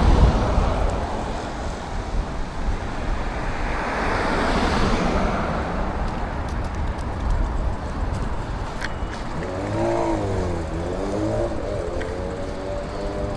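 City traffic passing close by, with swells of tyre and engine noise as cars go past. About ten seconds in, an engine revs up and down, and near the end another engine rises steadily in pitch as it accelerates.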